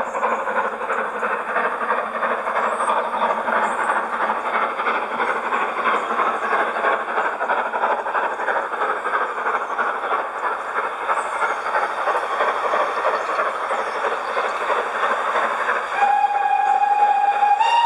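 Recorded steam locomotive working, a steady rush of exhaust steam, played back through a loudspeaker inside a railway tunnel. Near the end a steam whistle sounds one long steady note that steps up in pitch just before it stops.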